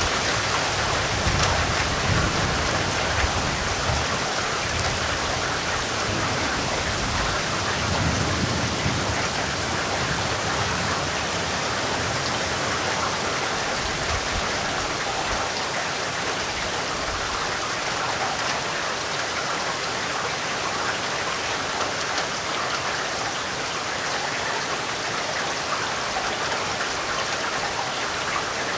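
Steady heavy rain falling, a dense even hiss of drops. A low rumble of thunder trails off during the first half and is gone after about fifteen seconds.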